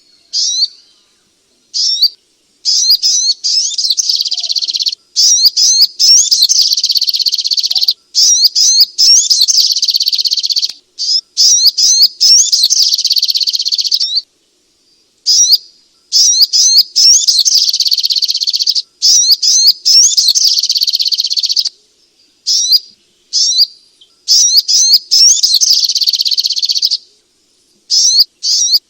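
Sogok ontong songbird singing a fast, high, chattering song in repeated bursts of about one to six seconds, broken by short pauses.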